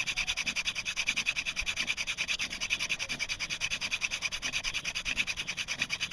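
Wooden hand-drill spindle being spun back and forth in a fireboard socket, a fast, even, rhythmic rubbing of wood on wood as it is worked to form an ember.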